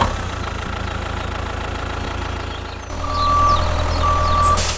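An engine running steadily with a low, even pulse, louder from about three seconds in. A high, steady tone sounds twice over it near the end.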